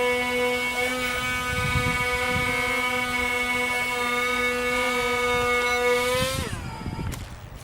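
Brushed electric motors and propellers of the XK X420 VTOL RC airplane running with a steady high whine, then spinning down with a quickly falling pitch about six seconds in as the throttle is cut.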